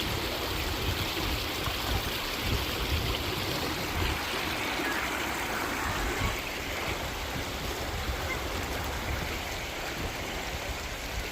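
Running water of a stream rushing steadily, with an uneven low rumble underneath.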